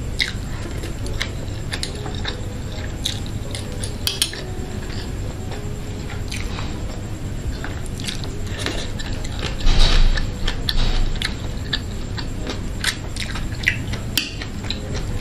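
Close-miked chewing of rice and kimchi, with wet mouth sounds and small crackles, and light clicks of metal chopsticks on the bowl. A louder stretch of chewing comes about ten seconds in, after a bite of kimchi.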